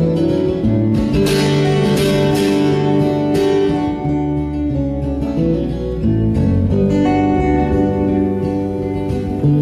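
Acoustic guitar playing chords in an instrumental passage between verses of the song, without singing.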